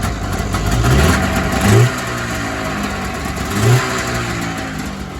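An engine revved in two quick blips about two seconds apart, settling back to a steady idle between and after them.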